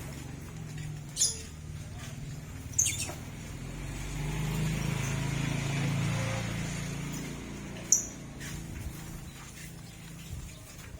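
Lovebirds giving short, sharp, high-pitched chirps, three in all, about a second, three seconds and eight seconds in, over a steady low hum that swells in the middle.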